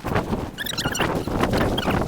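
Footsteps crunching through deep, unshovelled snow, about two steps a second, with some high squeaks.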